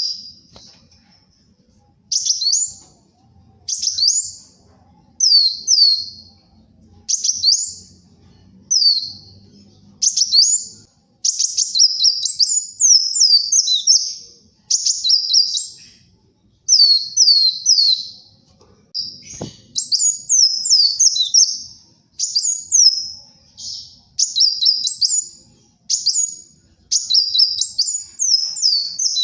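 Kolibri wulung sunbird singing: short bursts of quick, high twittering notes, many sliding down in pitch, repeated every second or two and coming close together from about a third of the way in.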